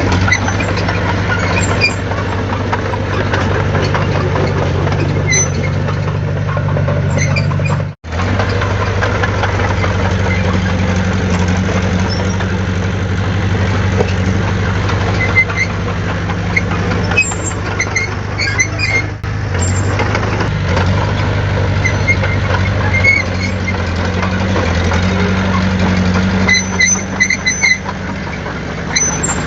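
Heavy diesel engine of earthmoving equipment running steadily, its note shifting a few times, with scattered faint metallic squeaks and clicks. The sound cuts out for a moment about a third of the way in.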